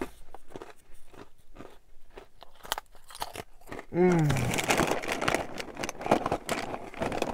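Wheat Thins crackers being bitten and chewed close to the microphone: a quick run of crisp crunches. About four seconds in comes a short hummed voice sound, then the crunching turns louder and denser.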